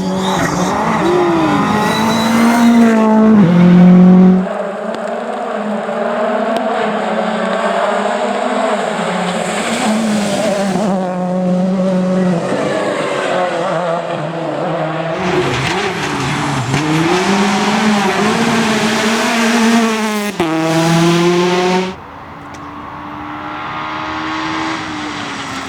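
Rally cars racing past on a stage, one after another in short cuts: engines revving hard and dropping in pitch at gear changes, with pitch glides as the cars go by. The sound is quieter for the last few seconds.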